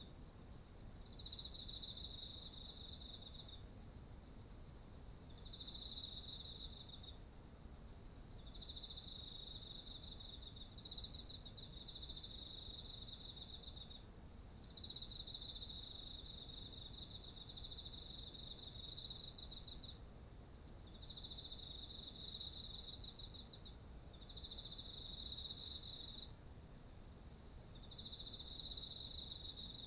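Several autumn insects calling together in a rice field. One high, unbroken trill runs on steadily, while two lower pulsed trills sing in overlapping phrases of two to three seconds, each with short gaps.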